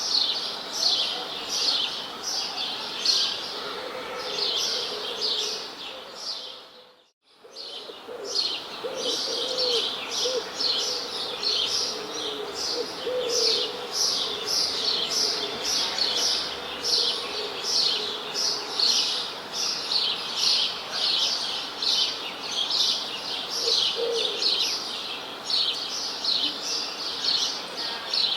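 Small birds chirping in a dense, fast chorus of high, repeated chirps, several a second, with a lower call now and then. About seven seconds in, the sound dips briefly to near silence and comes back.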